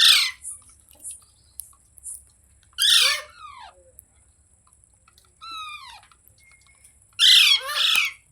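A green parrot calling four times, harsh calls that fall in pitch, with short pauses between them. The last call, near the end, is the longest and is doubled.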